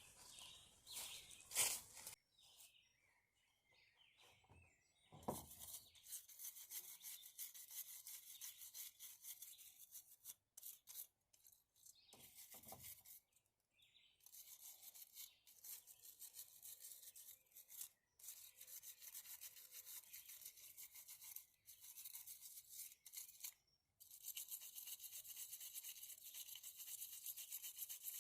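Faint, rapid scrubbing strokes on the leaking seams of a SHURflo RV water pump, in runs of several seconds with short pauses: the seams are being cleaned before they are sealed with glue.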